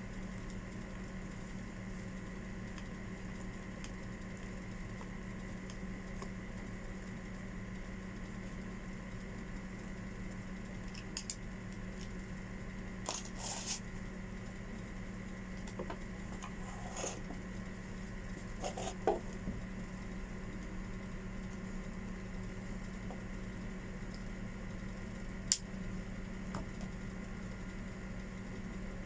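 Steady low hum, with a handful of short light clicks and scrapes spread through it. The sharpest clicks come about two-thirds of the way in and again near the end.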